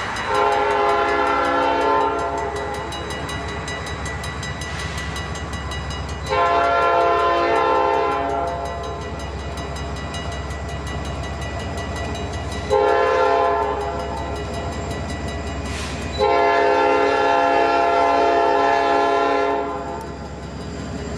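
Train air horn sounding the grade-crossing signal: two long blasts, a short one, then a final long blast, each a chord of several steady tones. A steady low rumble of the passing train runs underneath.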